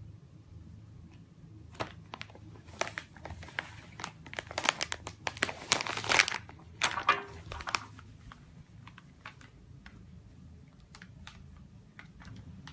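Crinkling and crackling, like plastic or paper being handled: a dense cluster of quick sharp crackles through the middle, thinning to a few scattered clicks.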